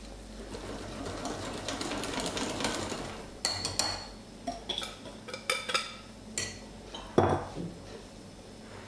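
A utensil stirring thick cake batter in a mixing bowl with a soft scraping sound, then a run of sharp clinks and knocks of the utensil against the bowl from about halfway in, the loudest knock near the end.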